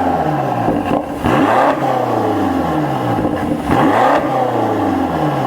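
BMW X5M (F95) twin-turbo V8 revved twice through an aftermarket Howling Motors valved performance exhaust. Each blip rises sharply and the pitch falls back towards idle over the next couple of seconds.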